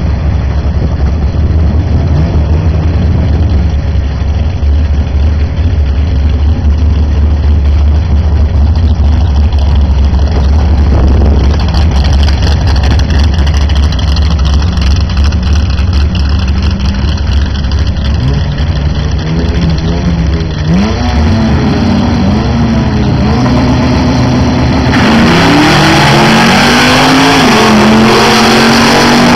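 Chevrolet Monza and Honda Civic drag cars idling at the starting line with a low rumble, then revving up, launching and accelerating hard down the strip, the engine note climbing and dropping back with each gear change.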